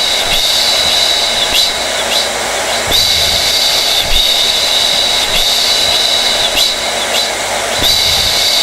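Hair dryer running steadily: a loud rush of air with a high-pitched whine over it that briefly dips now and then.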